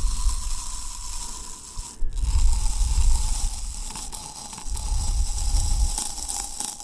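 Close-miked mouth sounds of chewing fresh fruit: wet, clicky chewing with soft low thuds from the jaw, under a faint steady tone.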